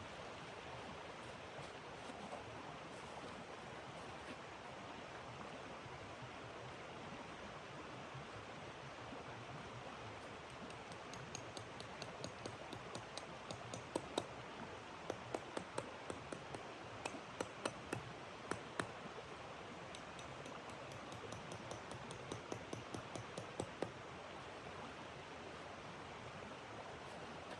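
Steady rushing blizzard wind. Through the middle there is a scatter of short, sharp crackles and pops, irregular and several a second at their busiest.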